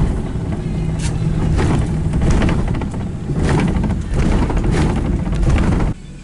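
Loud rumbling noise of a moving car, with irregular rushing crackles over it, cutting off suddenly near the end.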